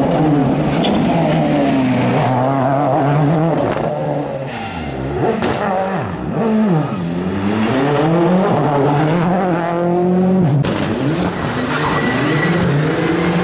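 Rally car engine revving hard and dropping back several times as the driver works through gears and lifts off for corners, with a few sharp pops between.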